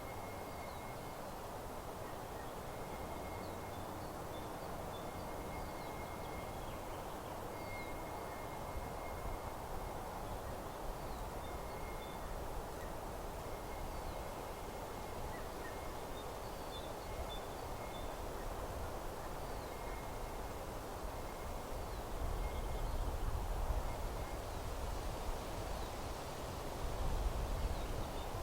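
Small birds singing in a meadow: repeated thin, high held notes and short falling chirps over a steady rustling background. Low gusts of wind swell in the last few seconds.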